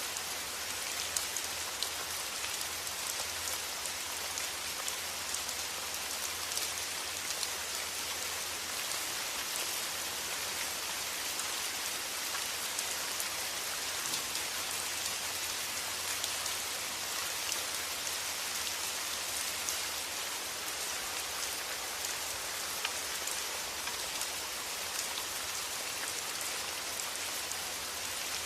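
Steady rain falling, an even hiss dotted with many small ticks of single drops, with a steady low hum underneath.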